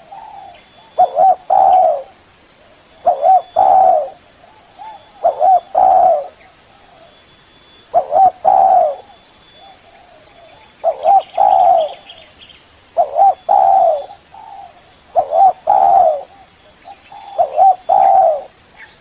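Spotted dove (tekukur) cooing, about eight phrases spaced roughly two seconds apart, each a short note followed by a longer coo. It is the bird's loud calling song, used as a lure to call a rival.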